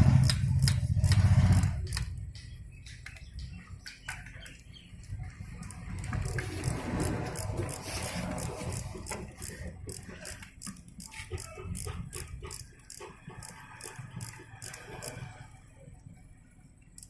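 A loud, low vehicle engine rumble that fades away about two seconds in. It is followed by scattered metallic clicks and rattles of hand tools and engine parts being handled.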